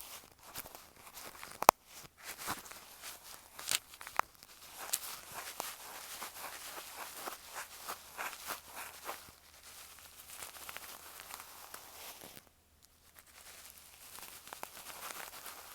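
Bonten, the fluffy down puff on an ear pick, brushed and rubbed over an earphone microphone as ear-cleaning ASMR. It makes a close, scratchy, crackling rustle with sharp clicks, and pauses for about a second around twelve seconds in.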